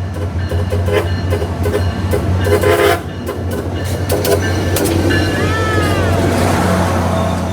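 SunRail commuter train running past under a steady low diesel drone, its horn sounding in short blasts during the first three seconds.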